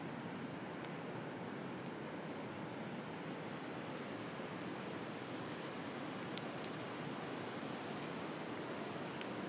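Sea waves washing steadily on the shore, with a few sharp crackles from a wood fire: two close together about six seconds in and one near the end.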